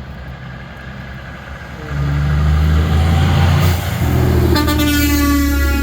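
Semi truck passing with its air horn blowing: a loud steady horn tone starts about two seconds in over the truck's engine, and a brighter, buzzier horn note joins about halfway through.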